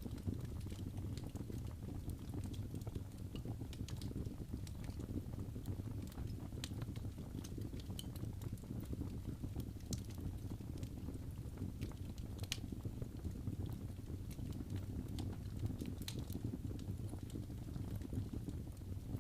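Wood fire burning in a fireplace: a steady low rumble of the flames with scattered sharp crackles and pops at irregular intervals.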